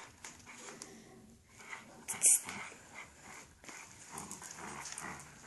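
A dog tugging at an umbrella, with its breathing and the rustle and scrape of the umbrella. There is one short, sharp crackle about two seconds in.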